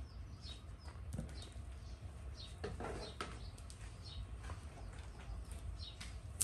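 A bird chirping repeatedly, short high falling calls about once a second, over a low steady rumble, with a few soft clicks and rustles around the middle.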